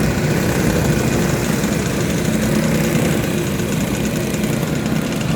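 A pack of speedway motorcycle engines running steadily together at low speed, the field circling slowly to line up for a restart.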